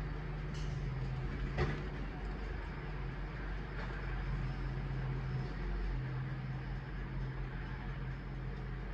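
Garbage truck running steadily with a low hum, with a sharp knock about a second and a half in.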